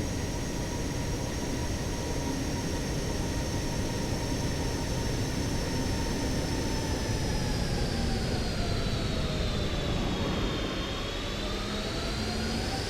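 Boeing 777-300 jet engines running, a steady rush with a high whine that slowly falls in pitch and rises again near the end.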